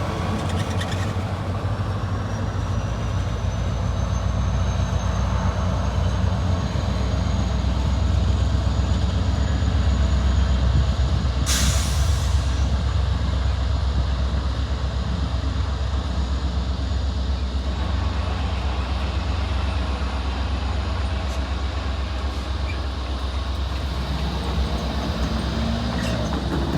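Diesel commuter train locomotive running with a steady low rumble and a faint high whine. A short burst of air hiss from the brakes comes about twelve seconds in.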